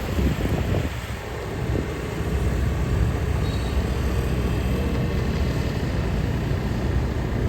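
A vehicle engine running with a steady low drone, settling in about a second in.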